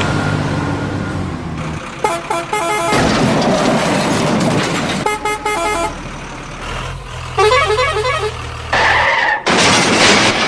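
Cartoon vehicle sound effects: a low engine hum, then two bouts of rapid repeated horn beeps. A falling run of tones follows, and loud bursts of noise close the passage.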